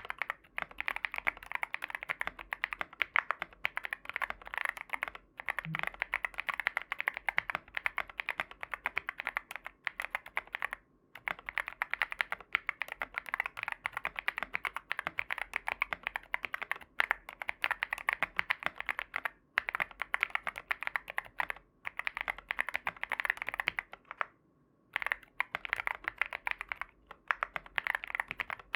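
Sugar65 mechanical keyboard with factory-lubed Tecsee Ice Mango tactile switches being typed on rapidly, a fast run of key clicks with a few short pauses.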